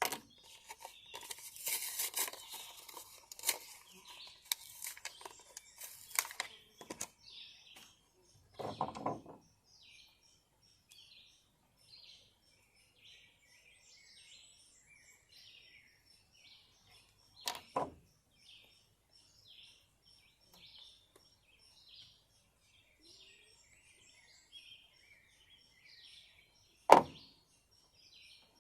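Clicks and rustling from small objects being handled for the first several seconds, then occasional knocks, the loudest near the end. Small birds chirp over and over in the background.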